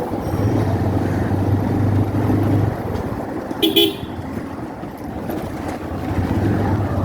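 Motorcycle engine running while riding in traffic, its low hum easing off about three seconds in and picking up again near the end. A vehicle horn gives a short beep about three and a half seconds in.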